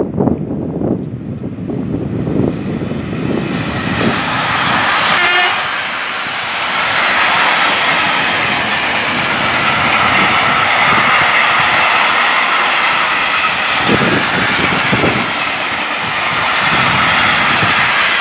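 Siemens Hellas Sprinter electric locomotive passing at speed with a container freight train, followed by the wagons rolling by in a steady rush of wheel and rail noise. Wind buffets the microphone at first, with a few low thumps near the end.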